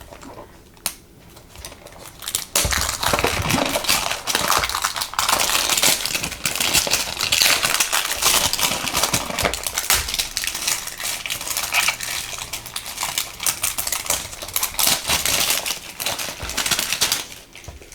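Plastic packaging crinkling and rustling as a small package is unwrapped by hand, a dense run of crackles and small clicks starting about two and a half seconds in and easing off near the end.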